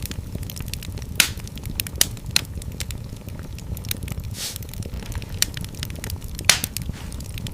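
Wood fire in a fireplace crackling over a steady low rumble of flames, with sharp pops every second or so and a few louder snaps, plus a brief hiss about halfway through.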